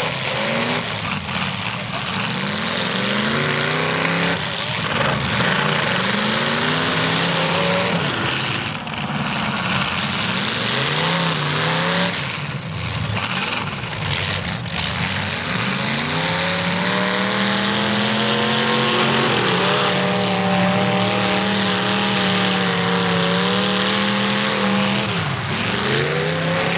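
Demolition derby cars' engines revving hard, the pitch climbing and dropping again and again as the cars back up and charge. About two-thirds of the way through, one engine is held at high revs for several seconds before falling away.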